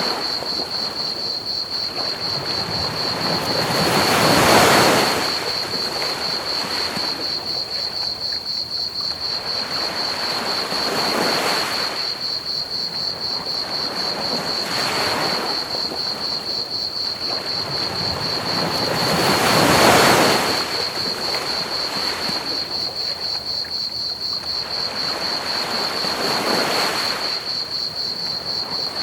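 Ocean waves washing onto a beach, swelling and receding, with the two biggest surges about five seconds in and about two-thirds through. Crickets chirp steadily and rapidly in a high, even pulse over a constant bed of pink noise.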